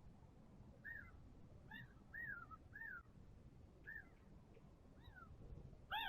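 A bird calling: a series of about seven short calls, each rising then falling in pitch, the last one near the end the loudest.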